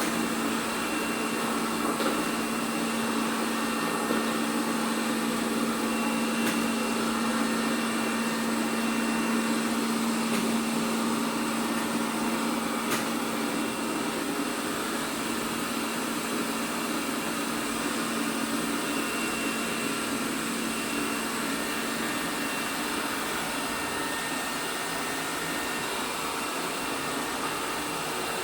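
ELARI SmartBot Lite SBT-002A robot vacuum running steadily: an even motor hum with a steady tone and the hiss of its suction, with a couple of faint clicks.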